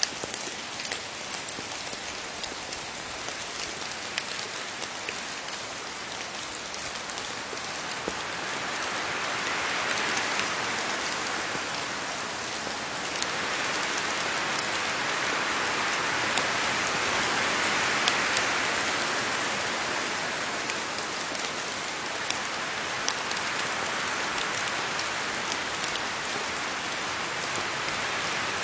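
Steady rain falling on leaves, a dense patter with scattered sharper drop ticks, swelling louder and easing off in slow waves.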